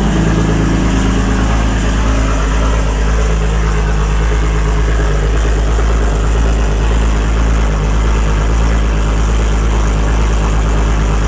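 Lexus SC300's freshly started 1000 hp engine idling steadily through a 4-inch straight-pipe exhaust. It is very loud.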